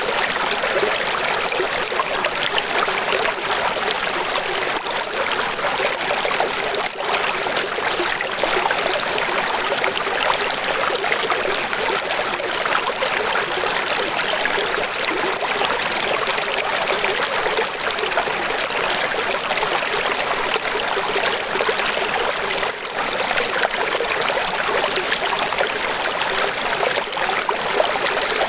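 Steady rushing water, an even hiss with almost no low end and no single splashes or breaks standing out.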